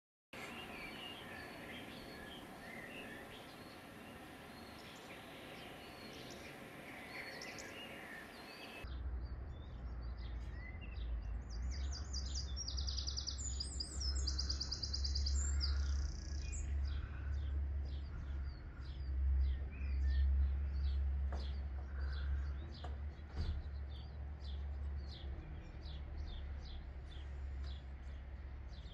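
Small birds chirping, with a run of rapid trilled notes around the middle. A low steady rumble comes in about nine seconds in and stays under the chirps.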